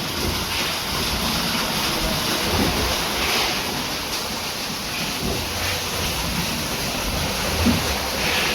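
Steam beam pumping engine at work: a steady rushing hiss of steam and machinery, with a stronger surge of hiss every few seconds and some low thuds.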